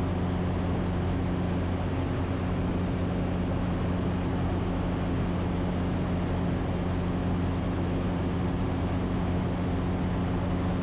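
Ikarus C42 light aircraft's engine and propeller droning steadily in cruise, heard inside the cockpit: a constant hum with a few low held tones under a rushing noise, unchanging throughout.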